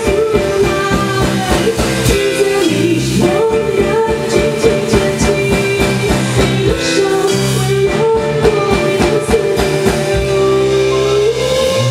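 Live band music: an instrumental passage with drums and a melodic lead line, settling into a held chord near the end.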